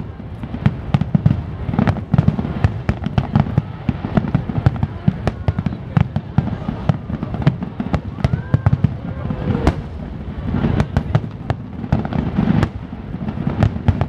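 Fireworks finale barrage of aerial shells: many rapid, overlapping bangs and crackles over a continuous low rumble, with no break.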